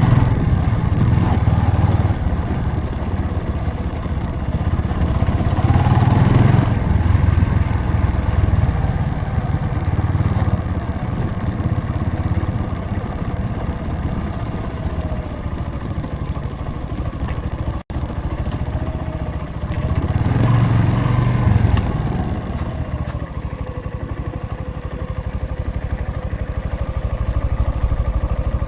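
Motorcycle engine running while riding, swelling twice as the rider opens the throttle, about six seconds in and again around twenty seconds. The sound drops out for an instant just before the eighteen-second mark.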